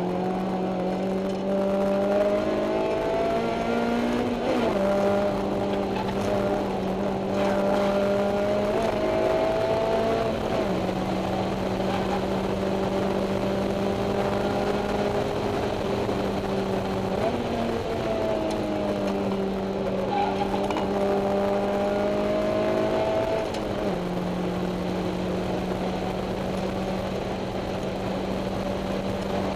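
Honda S2000's four-cylinder engine through an EVS Tuning 70-SSP exhaust and Mugen header, heard from inside the cabin with the windows open, running hard on track. The exhaust note holds a nearly steady high pitch, with a few brief bends up and down in pitch along the way.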